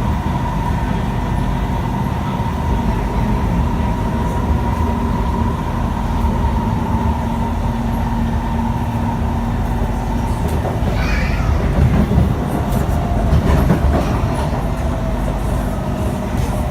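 SMRT Kawasaki C151 metro train running on the line, heard from inside the car: a steady rumble of wheels on rail with a faint constant whine. There is a brief higher-pitched sound about eleven seconds in.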